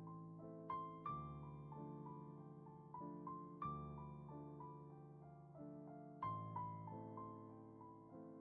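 Slow, soft solo piano music: sustained chords under a gentle melody, with a fresh chord struck every couple of seconds.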